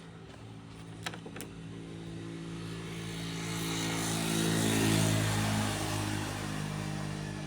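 A motor vehicle passes by, growing louder to a peak about five seconds in, then fading as its engine pitch drops. A steady low engine hum runs underneath, and two sharp clicks come about a second in.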